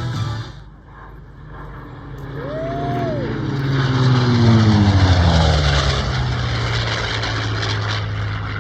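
Hawker Sea Fury's Bristol Centaurus 18-cylinder sleeve-valve radial engine passing by: it grows louder, its pitch drops steadily as it goes past about halfway through, then it drones on at a lower pitch as it flies away.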